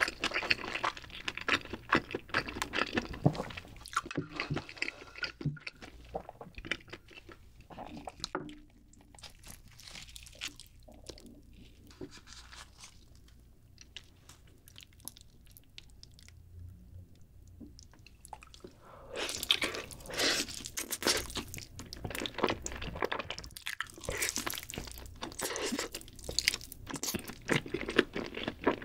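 Close-miked eating sounds: a person chewing a mouthful of black bean noodles, which dies down to a quiet stretch in the middle. About two-thirds of the way in come loud, sticky bites and chewing of a glazed roast chicken drumstick.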